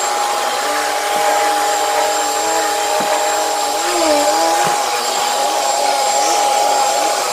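Commercial HEPA vacuum cleaner running steadily on carpet, its motor giving a constant whine over the rushing air, with weaker lower tones that waver in pitch.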